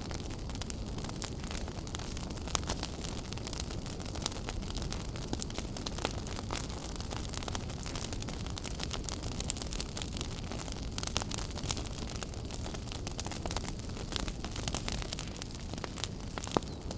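Wood fire burning in a fireplace: a steady low rumble and hiss with frequent sharp crackles and pops.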